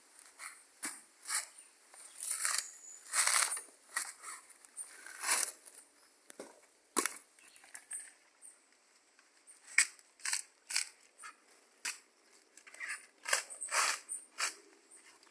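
Irregular crunching and tearing of dry plant material, short sharp strikes and brief scrunches coming one every half second to a second.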